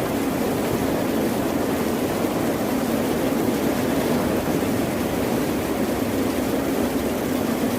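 Steady, continuous low roar of ocean surf, an even wash of water noise with no distinct wave breaks standing out.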